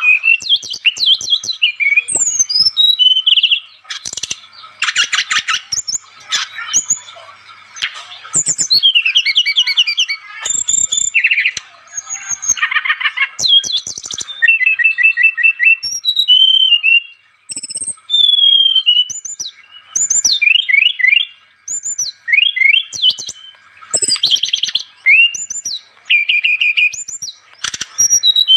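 Brown-chested jungle flycatcher (SRDC) in full song: a long, varied run of whistled notes, rapid trills and rising and falling glides, in phrases separated by short pauses.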